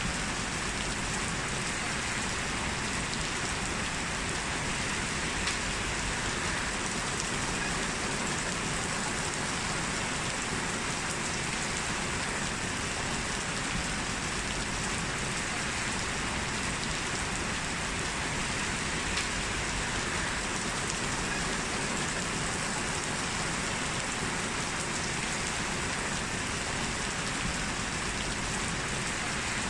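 Heavy rain falling steadily, an even downpour with no let-up.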